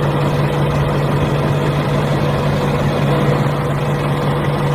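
A small motor running steadily with an even drone that does not change.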